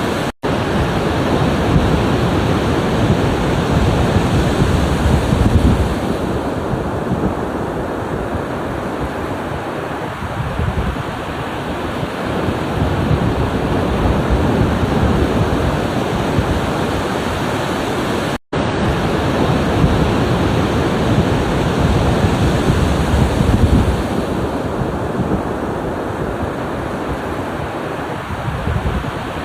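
Ocean waves surging continuously, swelling louder now and then. The sound cuts out completely for an instant twice, once just after the start and once about two-thirds through.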